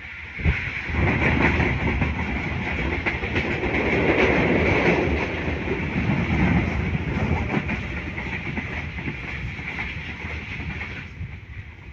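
A passenger train passing close by on the adjacent track, heard from a moving train: a sudden loud rush about half a second in, then steady rolling noise with rapid wheel clicks, dropping away abruptly about eleven seconds in.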